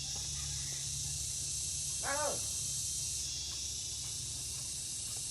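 A short animal call that rises and falls in pitch, once, about two seconds in, over a steady high hiss and a low hum.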